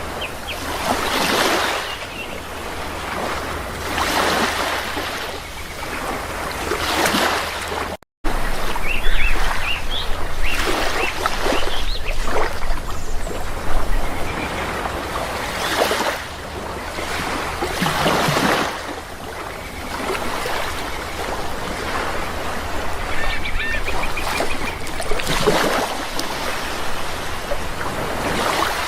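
Sea waves breaking and washing in, surging every few seconds, with short calls from waterbirds now and then. The sound cuts out completely for a moment about eight seconds in.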